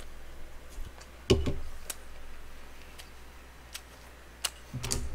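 Close-miked eating sounds: a mouthful of rice being chewed, with a handful of sharp mouth clicks and smacks, the loudest about a second in.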